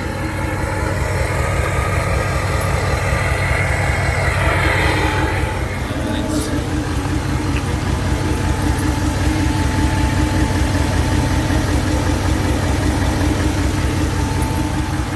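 2017 Nissan Titan XD's 5.0-litre Cummins V8 turbo-diesel idling through a 4-inch straight pipe with the emissions equipment deleted: a steady, rapid low exhaust pulse. A higher whine sits over it for the first five seconds or so, then fades out.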